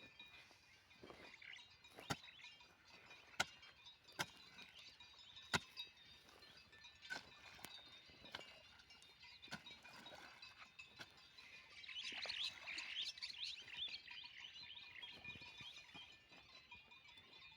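Faint bird chirping, busiest about twelve seconds in, with a few sharp clicks or taps in the first six seconds.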